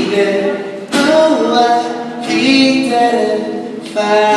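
A song with sung vocals repeating its chorus melody.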